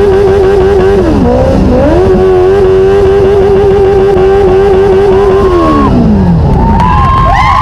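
Motorcycle engine running at a steady cruising pitch under heavy wind rumble. The pitch dips and comes back up about a second in, then winds down steadily as the bike slows near the end.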